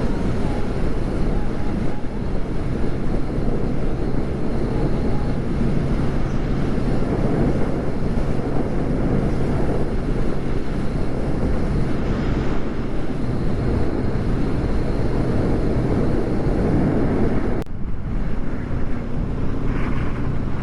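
Bajaj Dominar 400's single-cylinder engine running steadily at road speed, under heavy wind rush on the microphone. The wind noise thins a little near the end.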